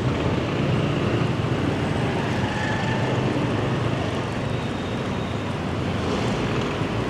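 Steady engine and road noise of a motorbike being ridden along a city street.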